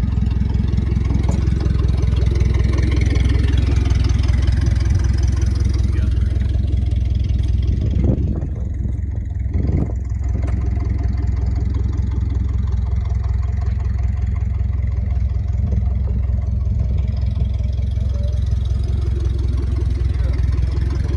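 An engine running steadily at idle, with a short knock about eight seconds in.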